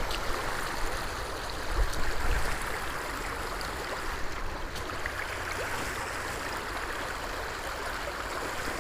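Water running over the small rapids of a trout stream, a steady rushing. A brief low bumping on the microphone about two seconds in.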